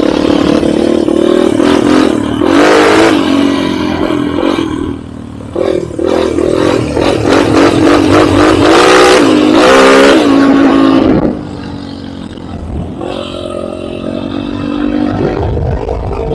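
Enduro motorcycle engine revving as it is ridden, its pitch rising and falling with the throttle. It eases off briefly about five seconds in, and again more lastingly about eleven seconds in.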